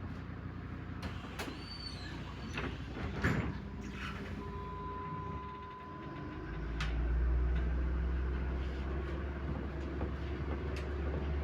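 Inside a MAZ-105 articulated city bus: the engine hums steadily, with a few sharp clicks and knocks in the first few seconds. About six and a half seconds in, the engine's low rumble grows much louder as the bus pulls away.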